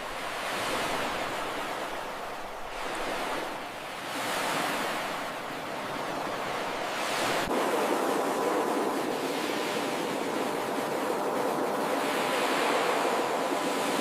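Ocean waves washing onto a beach, the surf swelling and falling back every few seconds. About halfway through it changes suddenly to a steadier wash.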